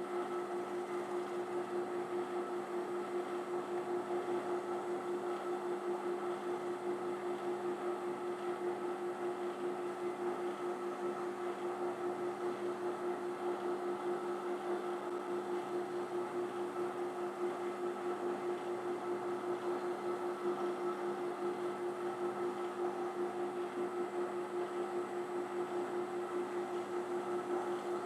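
Variable-speed benchtop drill press running steadily at about 1,000 RPM, sanding the inside of a drilled hole in wood: an even machine hum with a steady tone, no change in speed.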